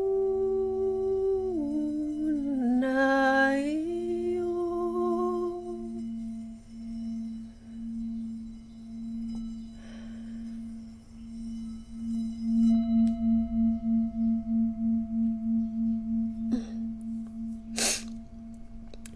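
A singing bowl rings with a steady, wavering low tone and swells again a little past halfway. Over it a voice hums a long held note that dips in pitch and climbs back, stopping about six seconds in. Two short sharp noises come near the end.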